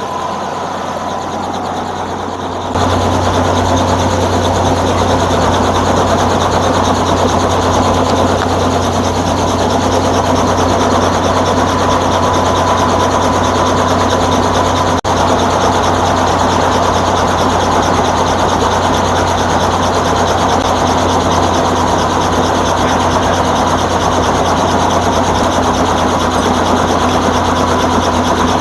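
Helicopter running on the ground, heard from inside the cabin: a loud, steady drone with a strong low hum and a few steady tones. It gets suddenly louder about three seconds in.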